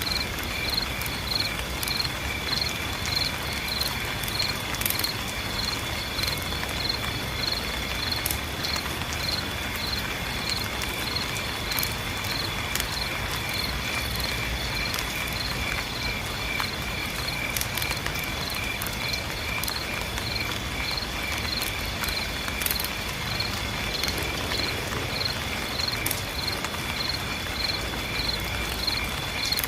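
Insects chirping in a regular pulse about twice a second over a steady high drone, with scattered sharp taps of rain and a low rumble beneath.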